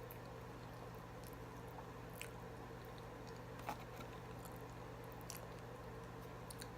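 Faint close-up chewing and soft wet mouth sounds of someone eating, with a few small clicks, over a steady low electrical hum.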